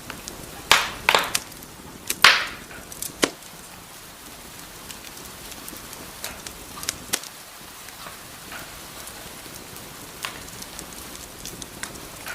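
Wood fire in a fireplace crackling over a steady soft hiss, with a quick cluster of loud sharp pops in the first few seconds, then sparser, fainter crackles.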